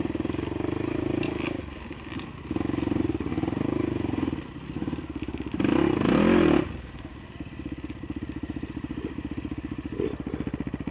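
Dirt bike engine running with the throttle opened and closed, a loud rev about six seconds in, then settling to a steady idle.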